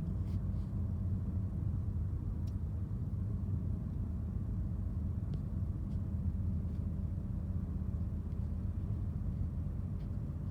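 Steady low rumble of a Ford car driving along the road, heard from inside the cabin: engine and tyre noise.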